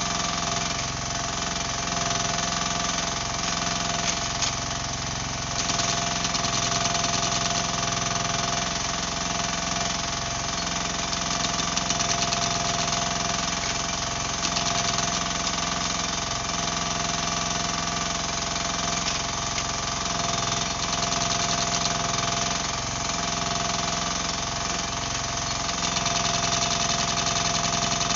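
Mini excavator's diesel engine running steadily while digging, getting a little louder about five seconds in.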